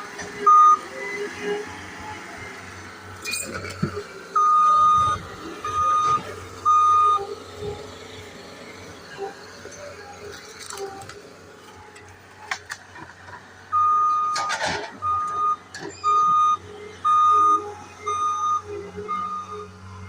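Skid steer's backup alarm beeping in bursts as the machine reverses, over its engine running steadily. A loud clatter of debris about three-quarters of the way through.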